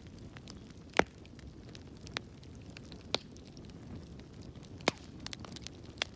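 Wood fire burning in a fireplace: a low steady rumble of flames with scattered sharp crackles and pops, the loudest pop about a second in and another near the end.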